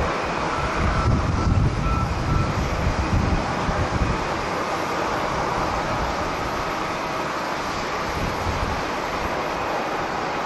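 Steady jet airliner engine noise with strong wind buffeting the microphone, the low gusts heaviest in the first few seconds.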